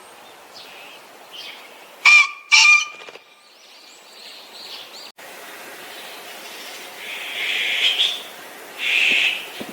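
Green pheasant crowing: two loud, harsh honking notes in quick succession about two seconds in. Later come two more loud, raspy bird calls.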